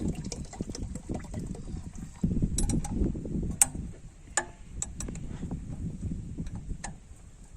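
Mechanical handling noise: scattered metallic clicks and knocks over a low rumble, with a busier, louder stretch in the middle, typical of hand tools working on metal parts.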